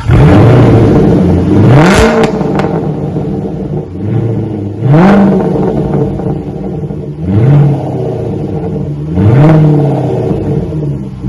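Supercharged 5.0 V8 of a 2017 Range Rover, exhaust running through deleted rear mufflers and an X-pipe in place of the secondary muffler, revved in about five short blips. Each rev rises and falls back to a fast idle just after a cold start. The uncorked exhaust gives a loud rumble.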